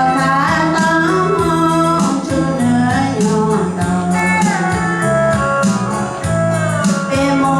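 A song: a voice singing a melody over electronic keyboard or organ chords with a steady beat.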